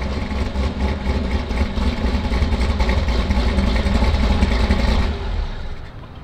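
Supercharged 6.2 L LT4 V8 of a tuned 2020 Chevrolet Camaro ZL1 running at idle with an uneven pulse, then shut off about five and a half seconds in.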